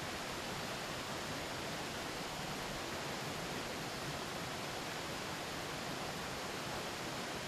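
Steady rushing of a mountain river, an even wash of noise with no changes.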